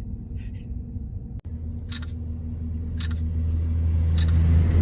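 Diesel engine of an approaching logging truck: a steady low drone that grows louder, with a few short sharp rattles.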